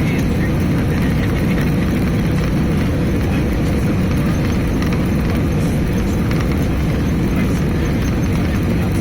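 Cabin noise of an Airbus A320-214 in flight operations, its two CFM56 turbofan engines running with a loud, steady, deep rumble and no break.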